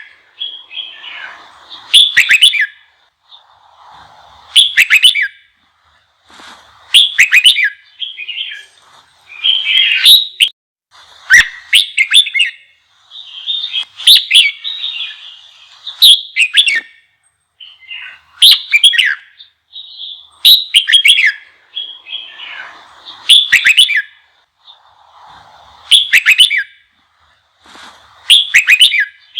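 Red-whiskered bulbul singing loud, short whistled phrases, one about every two to two and a half seconds, with fainter chatter between them. It is a heated, fired-up song, the kind played to provoke young wild-caught bulbuls into singing.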